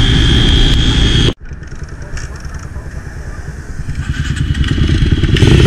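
Enduro dirt-bike engine running, with wind noise on the microphone. It cuts off abruptly about a second in, comes back quieter and grows steadily louder until near the end.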